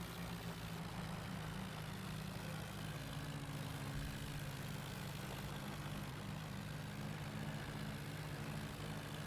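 Tractor engine running steadily at an even, low speed.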